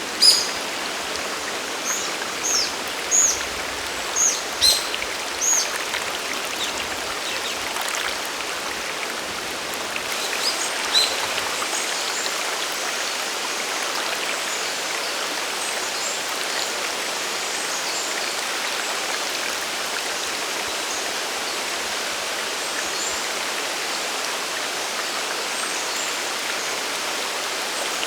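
Steady rush of a mountain waterfall and stream. Over it a bird gives short high chirps, each falling in pitch: a string of them in the first six seconds and a couple more about ten seconds in.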